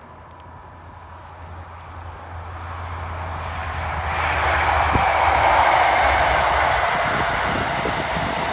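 High Speed Train with a Class 43 diesel power car passing at speed. The rushing noise builds steadily as it approaches and is loudest about five seconds in as the power car goes by. A low rumble then fades, leaving the steady rush of the coaches on the rails.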